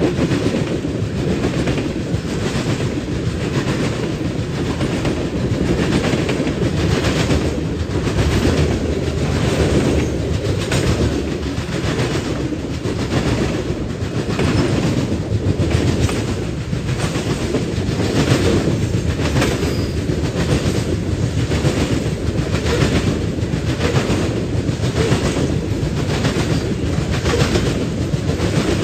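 Freight train of tank cars rolling past: a steady rumble of steel wheels on rail, with a rhythmic clickety-clack about once a second as the wheel sets pass over the rail joints.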